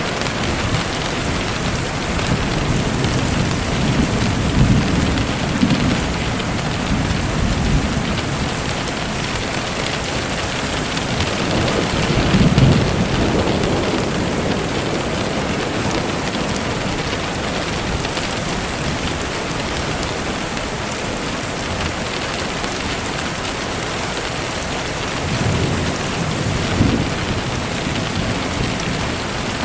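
Steady rain falling, with low rolls of thunder swelling around four to eight seconds in, loudest about twelve seconds in, and again near the end.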